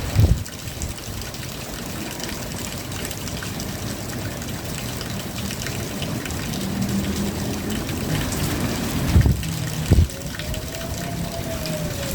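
Steady rain with water trickling and running off, broken by a few low thumps. Near the end a faint tone rises and then falls.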